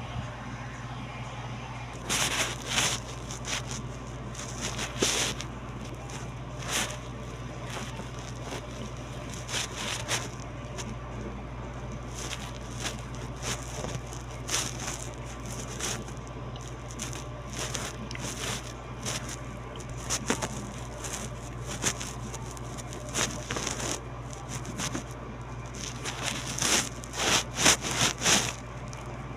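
Close-miked eating: chewing and crunching of food, with irregular crisp crackles and a run of louder crunches near the end, over a steady low hum.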